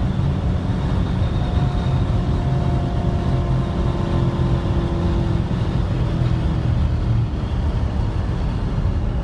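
Corvette Grand Sport's 6.2-litre V8 running hard on a track lap, heard from inside the closed cabin with tyre and road noise. A fainter tone falls slowly in pitch through the middle.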